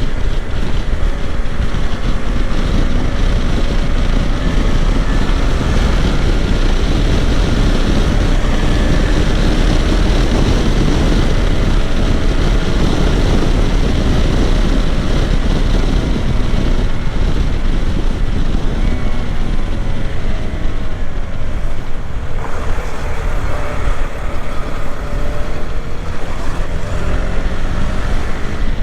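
KTM 390 Adventure's single-cylinder engine and exhaust under way, its pitch sliding up and down with the throttle, mixed with heavy wind rush on the microphone. About 22 seconds in, the low wind rumble drops and the engine note comes through more clearly.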